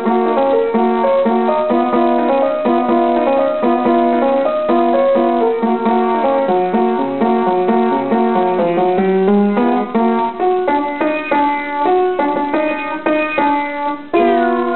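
Piano played as a solo tune, with notes changing several times a second and a brief break near the end.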